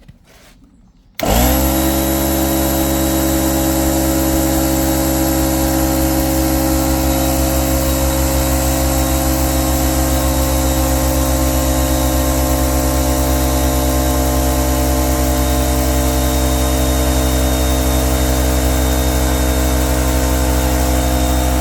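Air compressor starting up suddenly about a second in and then running steadily, pressurising the inflatable packer of a drain patch repair to about 2 bar.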